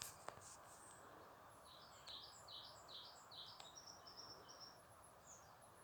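A songbird singing faintly: a quick run of about seven falling notes, then a few higher, shorter notes, over a steady background hiss.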